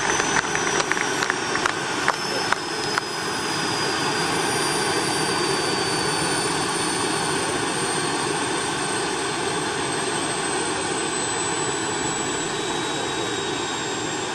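Large remote-controlled Mi-24 scale model helicopter running, a steady rush with a high whine that slowly falls in pitch. A few sharp clicks come in the first three seconds.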